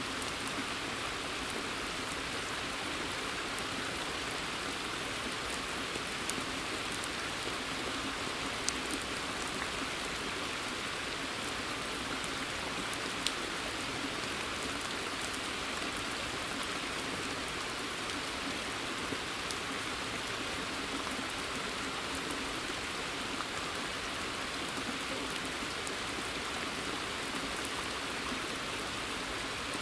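Steady rain falling in woodland, a continuous patter with a few sharper single drips standing out.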